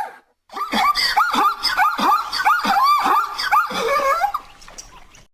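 An animal giving a rapid series of short yelping calls, about two to three a second, each rising and falling in pitch, stopping a little before the end.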